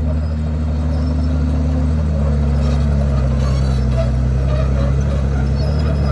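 Komatsu D51PX bulldozer's diesel engine running steadily under working load. Its pitch steps down slightly about two seconds in.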